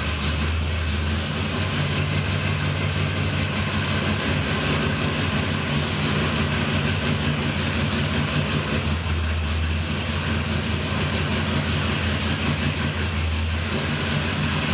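1971 Chevrolet Chevelle V8 running steadily on a new Edelbrock carburetor and Performer intake. It has just been started for the first time after the swap, with the ignition timing only roughed in.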